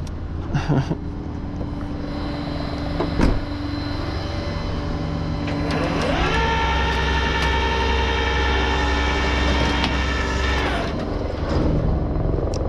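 Flatbed tow truck engine running at idle, then revving up about six seconds in, held at a higher steady speed for about four seconds, and dropping back to idle near the end; a sharp click about three seconds in.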